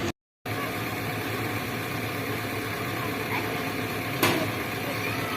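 An engine idling steadily, with a single sharp click about four seconds in.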